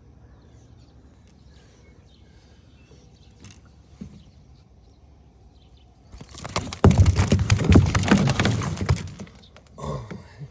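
Water splashing hard for about three and a half seconds, a big bass thrashing at the surface, starting about six seconds in after a quiet stretch.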